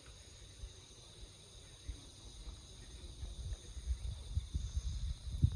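Insects chirring steadily in the background, with a low irregular rumble that grows louder from about three seconds in and a thump near the end.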